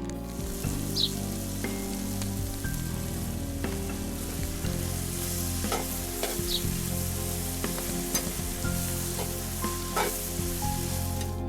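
Food sizzling as it fries in oil in a pan, with background music underneath.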